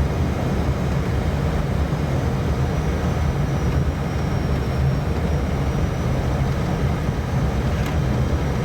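Steady, loud cockpit noise of an airliner on short final approach: airflow and engine rumble, heaviest in the low end.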